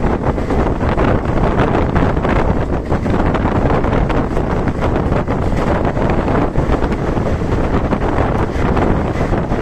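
Loud, steady rush of wind on the microphone over the running noise of a moving passenger train, recorded from a coach door of the Kaveri Express.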